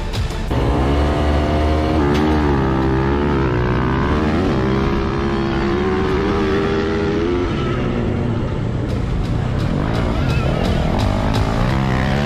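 Motorcycle engine revving, its pitch rising and falling repeatedly as the throttle is worked.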